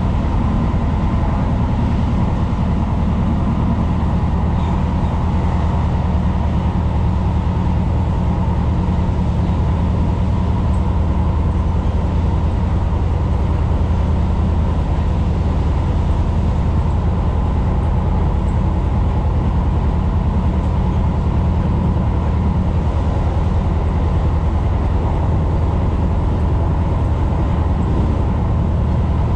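Tyne and Wear Metro train running at speed, heard inside the passenger car: a steady low rumble of wheels on track with a constant motor hum.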